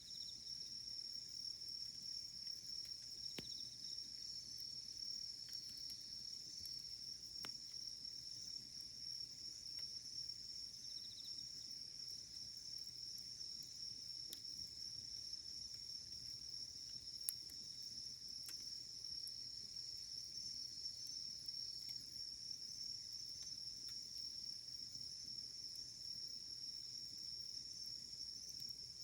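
A steady, high-pitched chorus of crickets trilling over a crackling wood fire, with a few sharp pops from the burning firewood, the loudest about seventeen seconds in.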